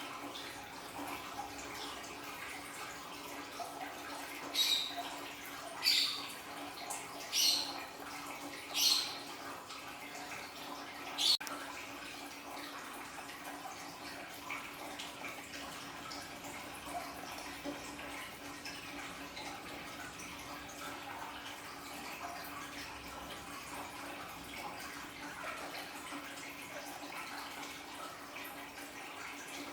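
Water from a small aquarium waterfall splashing and trickling steadily, with a faint steady hum underneath. Five short, sharp, bright sounds stand out about 4 to 11 seconds in.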